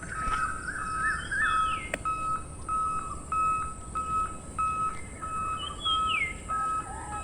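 Birds chirping and whistling, with a couple of falling swoops, over an even high beep that repeats about one and a half times a second.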